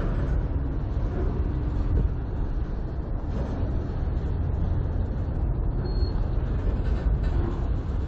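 Autorack freight cars rolling past at close range: a steady rumble of steel wheels on the rails.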